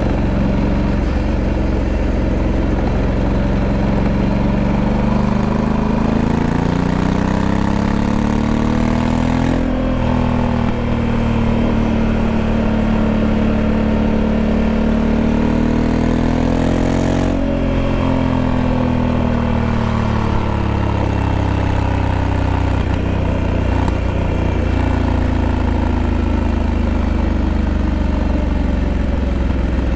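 Honda Africa Twin 1100's parallel-twin engine running under way. It builds revs over several seconds, holds a steady higher pitch for about eight seconds, then eases back down and settles.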